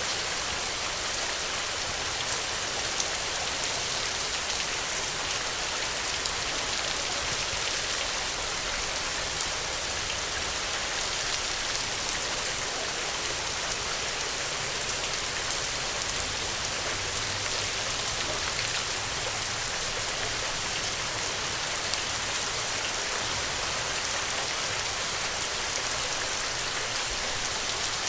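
Steady rain pattering on a surface, a dense even hiss full of fine drop ticks.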